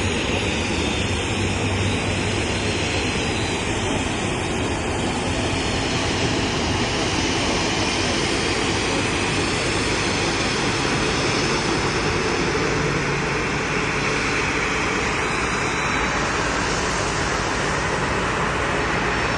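Airliner's jet engines running steadily at idle during pushback: a loud, even noise that does not change.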